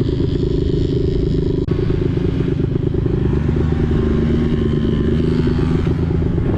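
Vehicle engine running steadily under way, heard from on board, with a held steady tone in its note for a couple of seconds around the middle.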